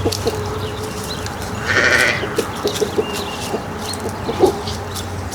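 A farm animal bleats once, about two seconds in, over a steady low hum and scattered short clicks.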